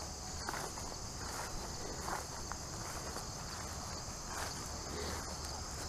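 A steady, high-pitched chorus of insects chirring in a grassy field, with soft footsteps rustling through long grass.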